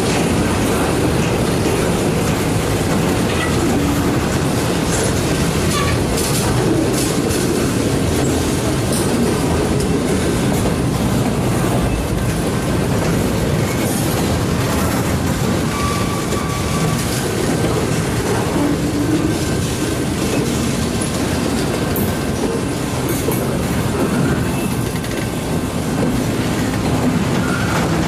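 Loaded military flatcars of a freight train rolling past at close range: a steady, loud rumble of steel wheels on rail, with scattered clicks as the wheels cross rail joints. A brief high wheel squeal sounds about halfway through.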